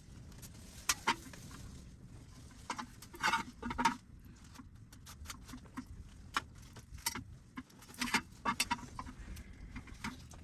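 Scattered sharp clicks and knocks from objects being handled, some in quick clusters, over a low steady rumble.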